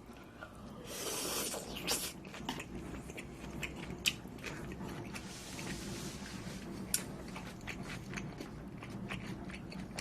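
Close-miked chewing and biting: wet mouth clicks and smacks with crunchy bites, loudest about a second in.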